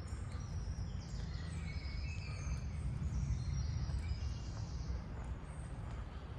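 Small songbirds singing short, high whistled phrases, most of them in the first two-thirds, over a steady low rumble.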